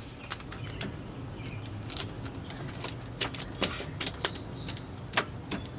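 Irregular sharp clicks and crackles of plastic sheeting and duct tape being pressed onto the inner metal of a car door to keep moisture out.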